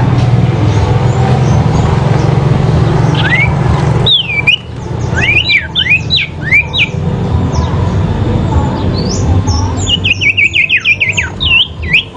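Sirpu songbirds calling against each other in a duel, with quick, sharply rising and falling whistled notes. The notes come in two bursts, the first about four seconds in and the second near the end, over a steady low rumble.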